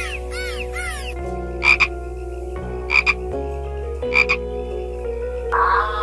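Dolphins calling over a steady music bed: a run of quick rising-and-falling chirps for about the first second, then three short, bright double calls about a second and a quarter apart. A different, rougher sound takes over near the end.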